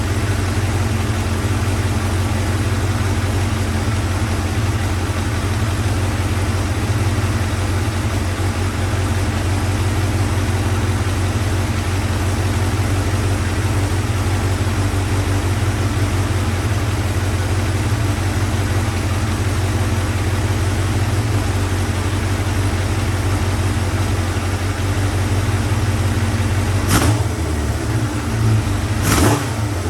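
Motorcycle engine idling steadily, with two short knocks near the end. The idle holds even, which the owner takes as a sign that a hard, possibly cracked vacuum hose was the leak that had made it hang.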